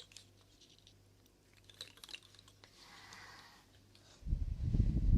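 Faint scattered clicks and a brief soft hiss close to an ASMR microphone, then a loud low rumble for about a second near the end, over a steady low hum.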